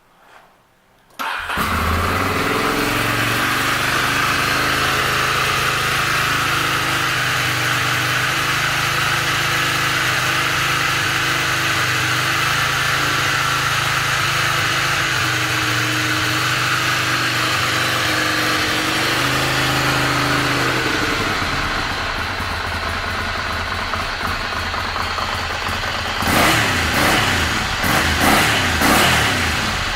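2009 Ducati Monster 696's air-cooled L-twin engine starting about a second in and idling steadily, its idle settling a little lower about twenty seconds in. Near the end the throttle is blipped several times, the engine revving up and falling back.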